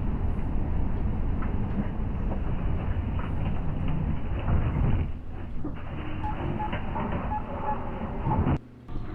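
Heavy vehicle noise, a loud low rumble, changing character about five seconds in and cutting out briefly near the end.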